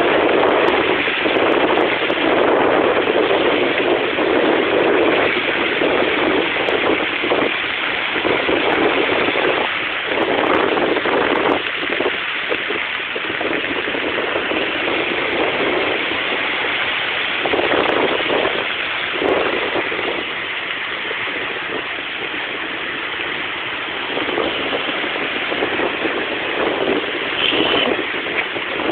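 Stormy sea surf: a steady rushing roar of breaking waves that swells and eases over several seconds.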